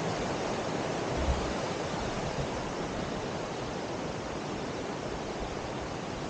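Steady rushing of water outdoors, an even hiss with no pitched sound, with a single brief low thump about a second in.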